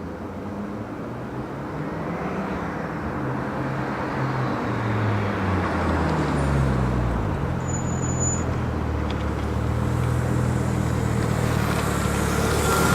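Car engine and exhaust note while driving, growing gradually louder, its pitch dropping in steps twice.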